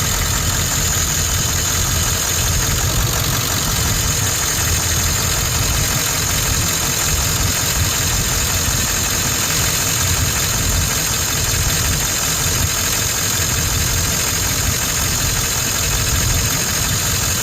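1999 Ford 7.3 L Powerstroke V8 turbodiesel idling steadily, with a steady high-pitched whine above the engine, while the power steering system is flushed with the engine running.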